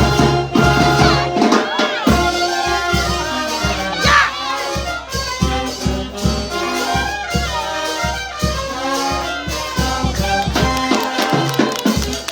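Brass band music with trumpets and trombones over a steady drum beat, with crowd noise underneath.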